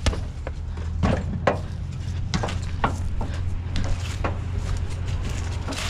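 An engine running steadily at low speed, with scattered short knocks and clicks at irregular intervals.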